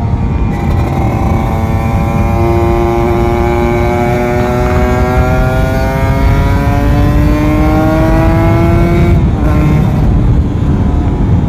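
Kawasaki Ninja RR 150's two-stroke single-cylinder engine pulling under acceleration, its pitch rising steadily for several seconds and then dropping about nine seconds in, over wind rush.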